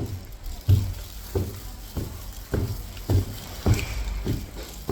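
Footsteps at a steady walking pace, about three steps every two seconds.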